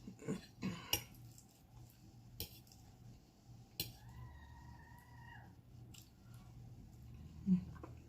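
Eating sounds: a utensil clicking against a plate or bowl several times, mostly in the first second, with a faint flat tone lasting about a second and a half a little after the middle and a short low thud near the end.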